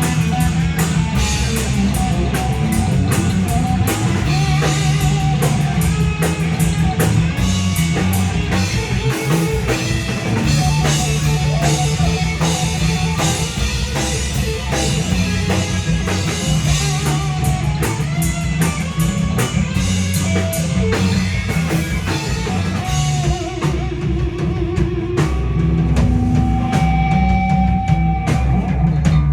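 Live rock band playing: a drum kit with busy cymbals over electric guitar and bass. About 23 seconds in the cymbals drop away and the band plays more sparsely, with held notes.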